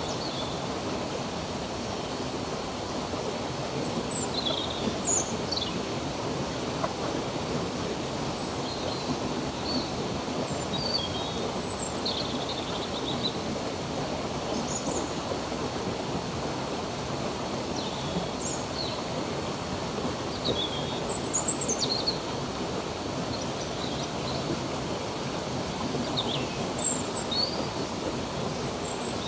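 Running water of a stream, a steady rushing flow, with small birds chirping over it: short high chirps and calls every second or two.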